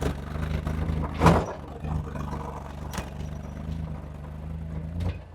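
An engine running steadily at a low, even pitch, with one loud, short noisy burst about a second in and a couple of light clicks later.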